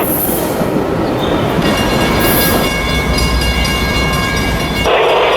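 Metra commuter train moving on the tracks: a steady rumble with several held high-pitched squealing tones from about a second and a half in, two brief hisses, and a loud burst of noise near the end.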